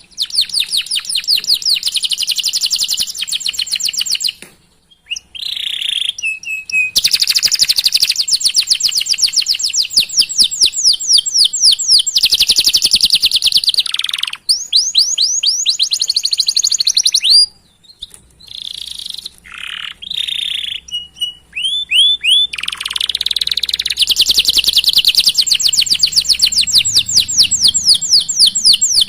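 Domestic canary singing long rolling trills of fast, evenly repeated down-slurred notes, mixed with short chirps. The song breaks off briefly twice, once about four seconds in and once just past halfway.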